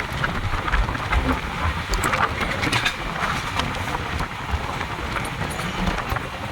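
Passenger express train running along the track: a steady rumble with frequent clicks and rattles of the coaches and wheels.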